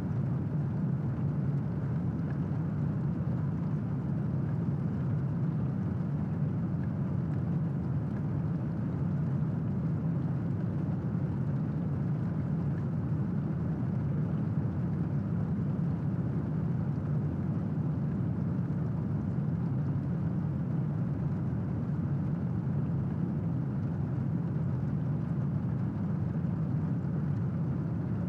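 Steady rain, a dull low-pitched rushing that holds even throughout, with no separate thunderclaps.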